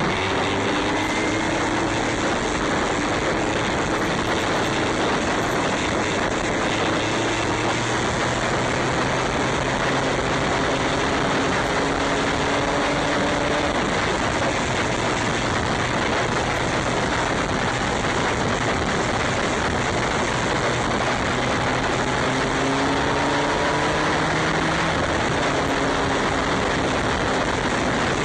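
Steady rush of wind on the microphone of a moving motorcycle, with the engine's drone underneath rising in pitch as it accelerates and dropping back several times.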